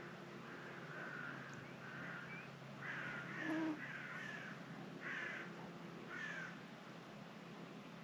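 A bird calling over and over, about nine short rough calls, loudest in the middle and stopping after about six and a half seconds, over a steady wash of sea waves.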